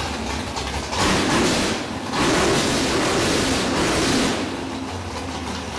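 427 Windsor small-block Ford V8 running with no mufflers, revved twice: a short burst about a second in and a longer one from about two to four seconds, then easing back.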